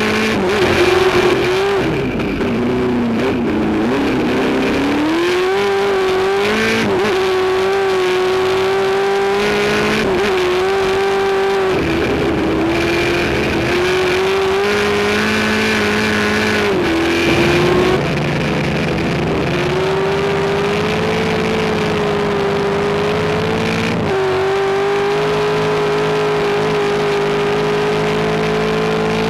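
Race car engine running hard, its pitch dipping and climbing with the throttle and stepping at gear changes several times.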